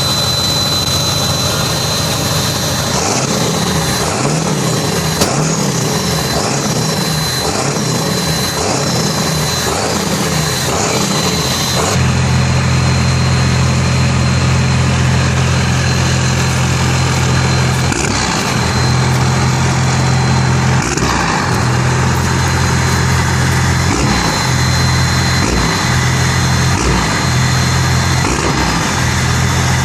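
Diesel pickup truck engine revved repeatedly, its pitch rising and falling, with a thin high whine over it, for about the first twelve seconds; it then runs at a steady note with a few brief throttle blips.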